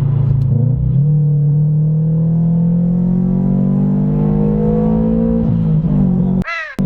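Jackson Racing C30-supercharged flat-four of a 2018 Subaru BRZ, with a catless header and a single-exit exhaust, pulling hard under acceleration. Its pitch rises steadily for about four seconds, then drops at a gear change. The sound breaks off briefly near the end.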